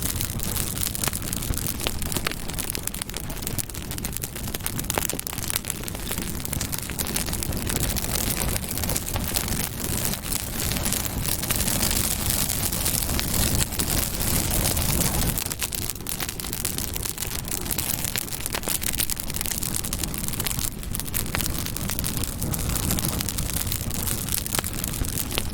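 Campfire burning: a steady rush of flames with many sharp crackles and pops from the burning wood.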